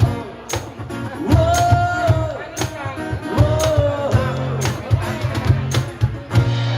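Live rock band playing a ballad: regular drum hits over a steady bass, with two long held melody notes that glide in pitch.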